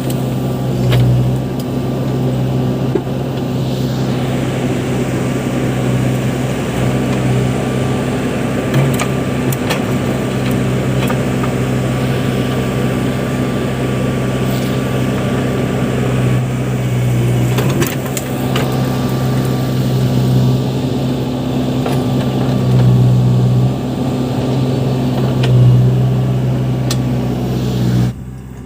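Backhoe loader's diesel engine running steadily, swelling in level several times, with a few sharp knocks. It cuts off suddenly near the end.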